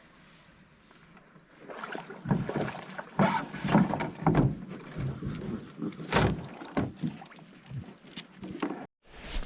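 A canoe being paddled: a run of irregular splashes and knocks that starts under two seconds in and cuts off abruptly just before the end.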